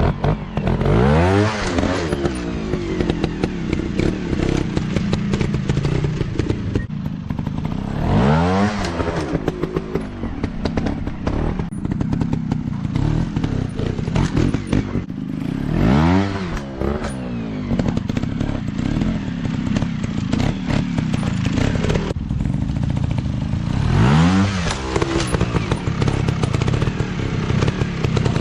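Dirt bike engine running low and revved up and back down four times, about every eight seconds, with rattling throughout.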